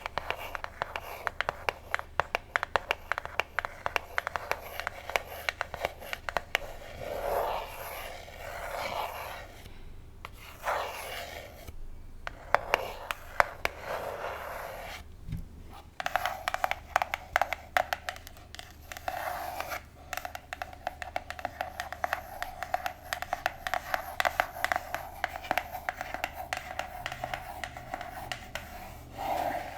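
Long artificial fingernails scratching and tapping on a pink box: dense runs of quick small clicks, with slower drawn-out scrapes in the middle.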